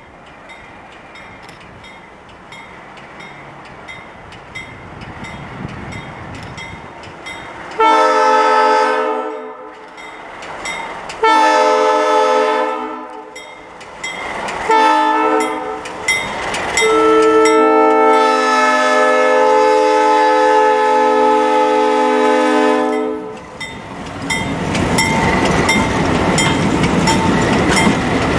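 Alco diesel locomotive's air horn sounding the grade-crossing signal, two long blasts, a short one and a long one, as the train comes closer. Then the locomotives pass with a loud engine rumble and regular clicking of wheels over the rail joints.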